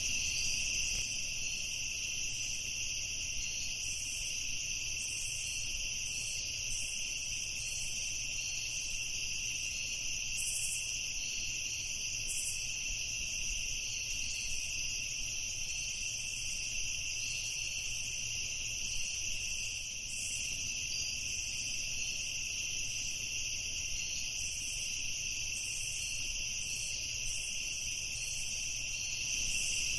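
Night chorus of crickets: a steady, unbroken high trill with short, higher chirps scattered through it.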